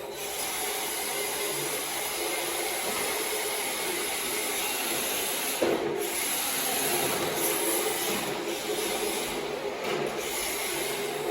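MST RMX 2.0 electric RC drift car running laps: a steady high electric-motor whine over the scrubbing hiss of hard drift tires sliding across the floor, with one sharp knock a little past halfway through.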